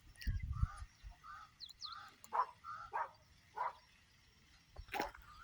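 Birds calling: a series of about eight short calls, with a brief low rumble of wind or handling on the microphone at the start and a sharp click near the end.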